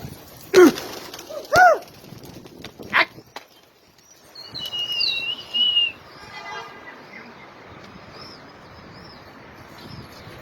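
Pigeons with wing flaps and bird calls: a few loud, short sweeping calls in the first two seconds, then a high chirping call and fainter chirps.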